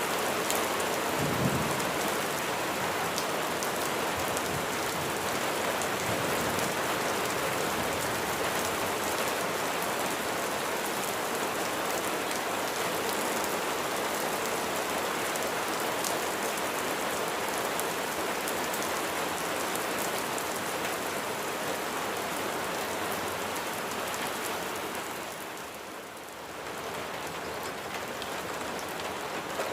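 Steady rain falling, a dense, even patter. There is a brief low thump about a second and a half in, and the rain dips in level for a moment near the end before picking up again.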